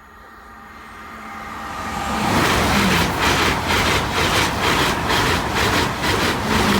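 Express passenger train approaching and passing at speed, growing steadily louder until the rush of the train takes over about two seconds in. A rapid rhythmic clatter of wheels, about three beats a second, runs under the rush, which starts to fall away near the end.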